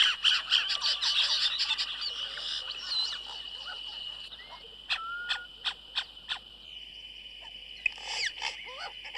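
Yellow-rumped caciques calling at their colony: a dense burst of chattering, gurgling whistles at first, then a run of sharp clicking notes and more calls near the end, their displays turning aggressive as a troupial intrudes. A steady high-pitched drone runs underneath.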